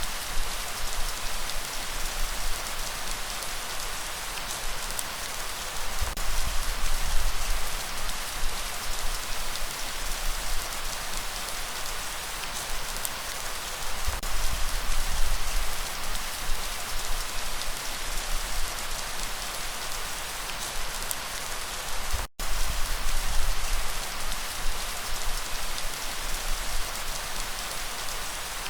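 Steady rainfall, an even hiss of drops with a low rumble underneath. The sound cuts out completely for an instant about three-quarters of the way through.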